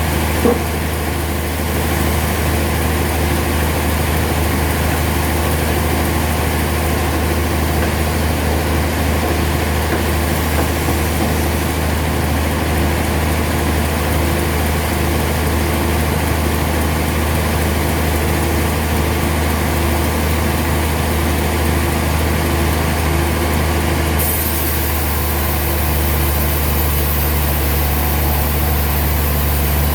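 Sawmill machinery running steadily with a low, even hum, with a single sharp click about half a second in. About 24 seconds in the sound changes slightly and a high hiss joins it.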